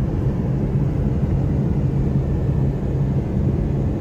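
Steady low drone of a moving vehicle: engine and road noise running evenly.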